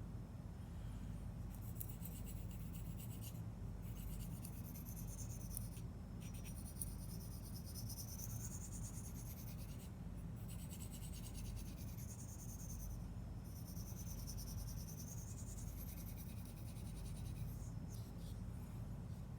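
Spyderco Lil' Native's S30V steel blade drawn across a sharpening stone in long scraping strokes, each lasting a second or more, with short pauses between them. A steady low hum runs underneath.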